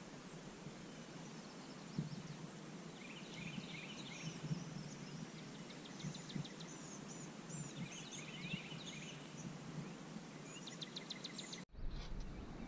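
Outdoor ambience with small birds chirping and trilling in short phrases over a steady low hiss, and a few faint knocks. Near the end the sound drops out for an instant and comes back with a different background.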